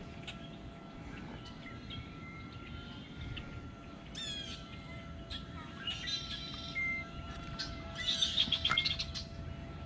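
Birds chirping, with several quick trills, the loudest about eight seconds in. A faint steady whine runs underneath.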